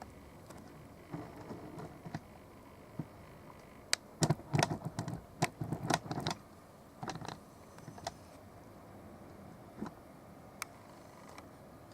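Scattered sharp clicks and knocks, like small objects being handled, over a low steady background, with a dense cluster about four to six seconds in.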